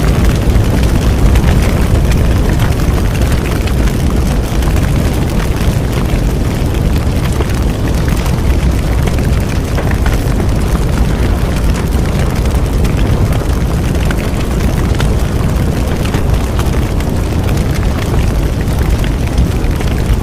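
Bonfire burning: a steady low roar of flames with a constant scatter of small crackles and pops from the burning wood.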